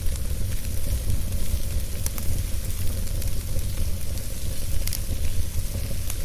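Wood fire burning in a fireplace: a steady hiss and low rumble with a few sharp crackles scattered through.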